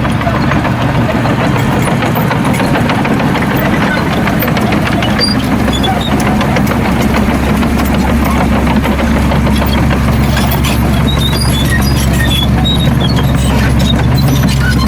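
Heavy diesel engine of earthmoving machinery running steadily at a low, even pitch, with a continuous metallic rattle and clatter over it.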